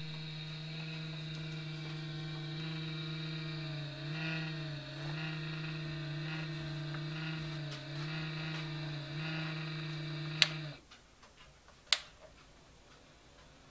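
Crane humidifier giving off a loud, steady pitched buzz that wavers slightly about once a second, then cuts off abruptly near the end, with two sharp clicks around the cut-off. The noise comes and goes on its own in a unit only a few months old, and the owner does not know its cause.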